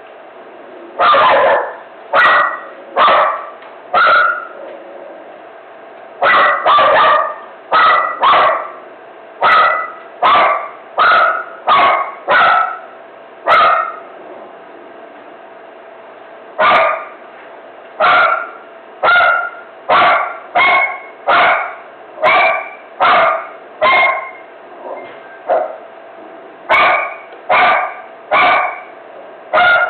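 Dog barking over and over in single short barks, roughly one a second, about thirty in all, with a pause of a couple of seconds midway.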